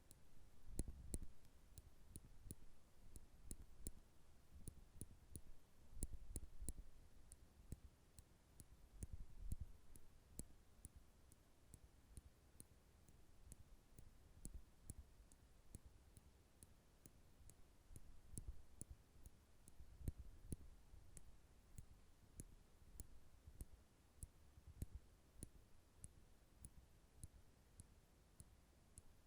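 Nail clippers clicking repeatedly at close range: a quiet, irregular run of sharp metallic clicks, about two or three a second, with soft low thuds among them.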